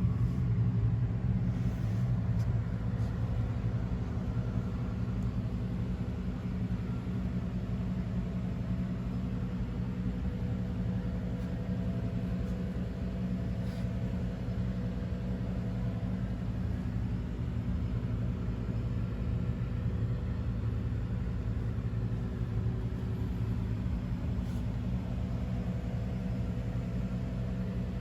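Honda CX650 Turbo's turbocharged V-twin engine running steadily at an even, unchanging speed, slightly louder in the first couple of seconds.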